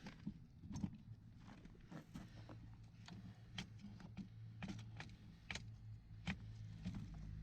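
Battery-electric 5-inch gauge Ruston locomotive running along the garden track: a steady low motor hum that grows louder near the end, with sharp irregular clicks from the wheels on the rails.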